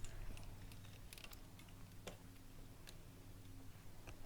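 Faint, scattered clicks and light taps from a plastic pencil case and small school supplies being handled, over a low steady hum.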